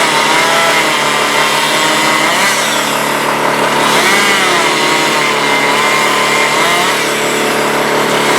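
Chainsaw running during tree cutting, its engine pitch wavering up and down as it works.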